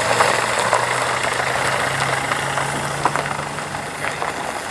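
A car engine idling and running slowly, a steady low hum that rises a little in pitch about two seconds in.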